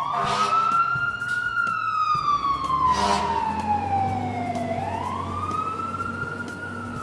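Fire engine siren wailing: the pitch climbs, falls slowly for about three seconds, then climbs again near the end. Two short clicks come about a third of a second in and again about three seconds in.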